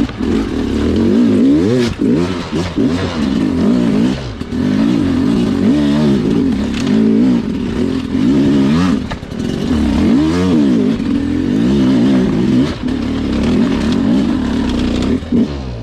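Two-stroke Sherco dirt bike engine revving up and down over and over as the throttle is worked, its pitch repeatedly rising and falling, with a few brief drops where the throttle is shut.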